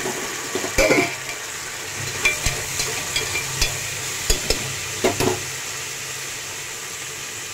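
Onions, green chillies and tomatoes sizzling in hot oil in a pressure cooker, with a spoon scraping and knocking against the pot as they are stirred. The stirring stops about five seconds in, leaving steady sizzling.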